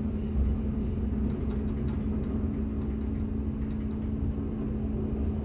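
Passenger train running along the line, heard from inside the carriage: a steady low rumble of the wheels on the rails with a constant hum from the running gear or engine.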